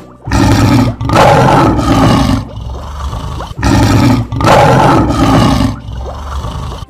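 Lion roar sound effect, given twice: two loud, rough roars of about two seconds each, the first with a brief break about a second in.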